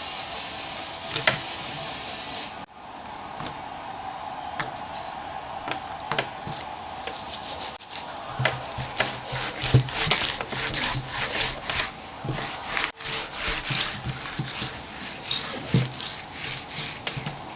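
Thick glitter slime being poked and squished by hand, giving a run of short irregular clicks and pops that come thicker from about halfway through.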